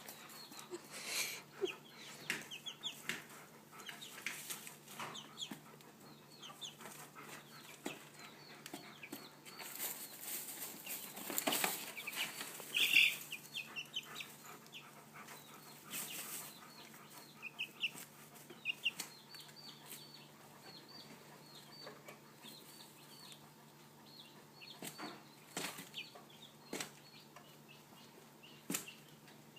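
Chickens clucking in short, soft, repeated calls while scratching and rustling in fresh hay, with a few louder rustles about a third of the way through and again a little after the middle.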